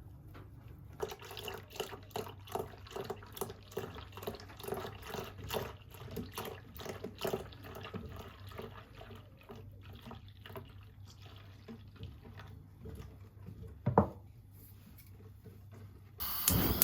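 Water splashing and dripping, as at a running sink, in a quick irregular patter that thins out after about ten seconds. A single sharp knock comes near the end.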